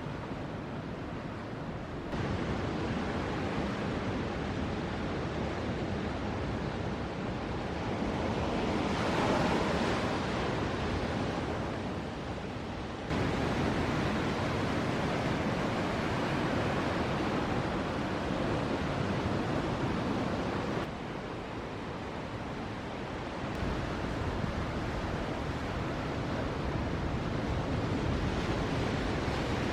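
Ocean surf: a steady rush of waves breaking, swelling brighter about nine seconds in. The level jumps up or down abruptly a few times, as at cuts between shots.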